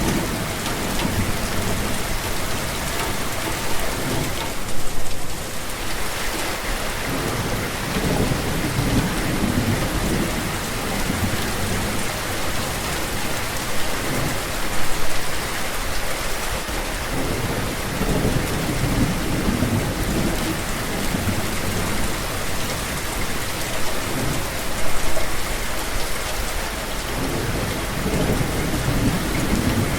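Steady rain falling, with low rumbles swelling and fading underneath it and a brief louder surge about every ten seconds.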